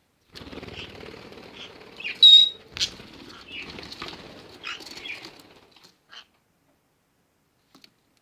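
Small pet parrot flapping its wings hard for about five seconds, with a loud, short, high chirp about two seconds in.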